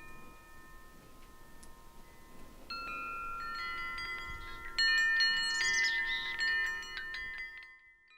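Chimes ringing, with many clear metallic tones struck one after another and left to ring over each other. They grow fuller about three seconds in, are loudest from about five seconds, then fade away near the end.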